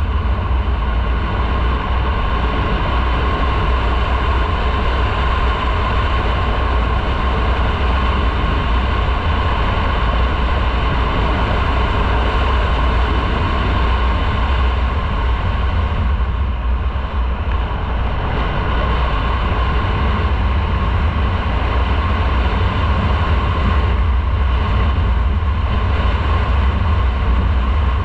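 Motorcycle riding on the road: the engine runs steadily under a heavy rumble of wind on the microphone. The sound dips briefly about two-thirds of the way through.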